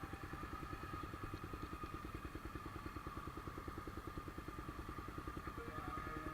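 Honda CBX 250 Twister's single-cylinder four-stroke engine running steadily at low revs, with an even, rapid chugging beat.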